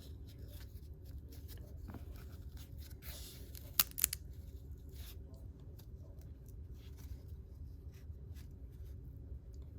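Freshly opened trading cards that stick together being peeled apart and handled: faint rustles and ticks, a short scrape a few seconds in followed by two sharp snaps, over a steady low hum.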